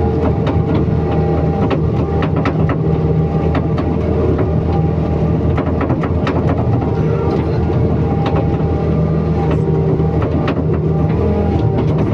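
Excavator's diesel engine running steadily under load, with frequent irregular clicks and knocks from the machine as it works.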